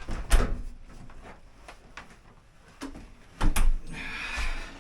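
A few sharp knocks and clunks from equipment being handled, with a short scraping rustle near the end.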